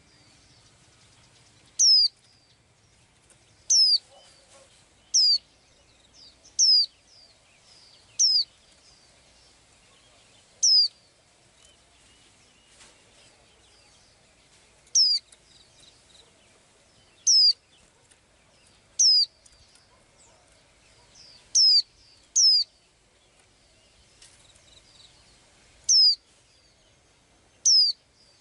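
A small bird calling: a single short, high, sharply falling whistled note, repeated about thirteen times at irregular gaps of one to four seconds.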